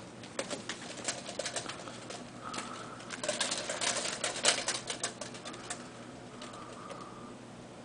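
Cats' claws scratching and scrambling on a cat tree: a rapid run of scratches and clicks that grows thicker and louder midway, with one sharp knock, then thins out.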